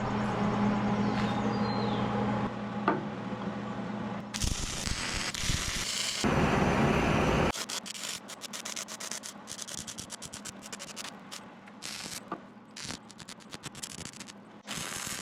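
Arc welding on a skid steer bucket's steel cutting edge. A steady hum is followed a few seconds in by a loud hiss lasting about three seconds, then irregular crackling and clicking.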